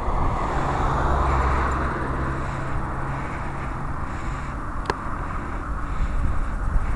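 A car passing on the road: a low engine hum and tyre noise, loudest in the first two seconds and fading away after about four seconds. A single sharp click about five seconds in.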